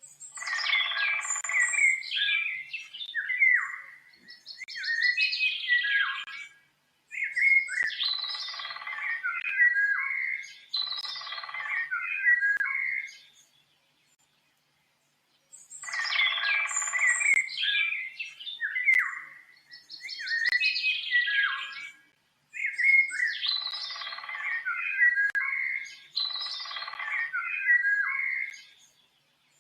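Birds chirping and trilling in quick, busy phrases. The same stretch of about thirteen seconds plays twice, with a two-second silence between: a looped recording.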